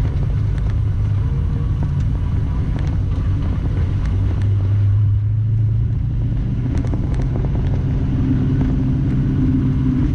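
1968 Chevrolet Chevelle's engine running with a steady low drone while the car rolls along at low speed, swelling briefly about halfway through.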